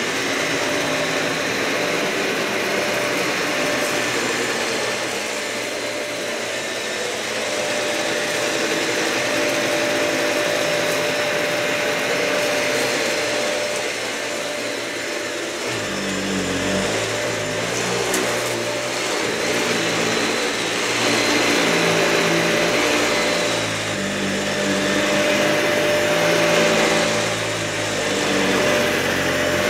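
Dyson vacuum cleaner running over a matted carpet: a steady motor whine with a constant high tone over dense noise. About halfway through, a lower, uneven rumble joins in.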